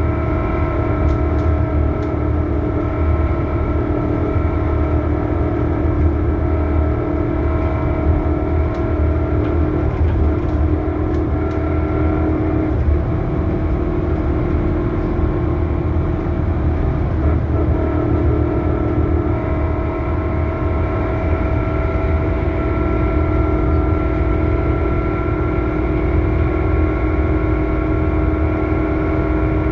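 Scania K280UB city bus with a ZF Ecomat automatic gearbox running, a low engine drone under a loud, steady high whine that shifts slightly in pitch twice: the horrible sound of this bus.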